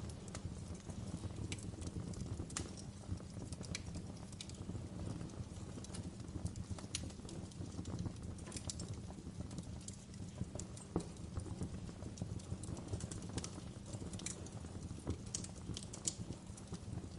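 Fire crackling: irregular sharp pops and snaps, some louder than others, over a steady low rumble of burning flames.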